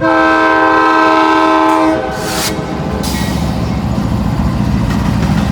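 Diesel locomotive air horn sounding one long blast of several steady notes together for about two seconds, then cutting off. After it the approaching train's engine rumbles on steadily, with a short hiss just after the horn stops.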